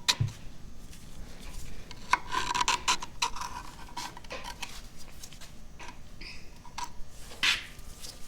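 Metal parts of an Oliver 77 tractor's PTO assembly scraping and clinking as they are handled during teardown, with scattered sharp clicks among the rubbing.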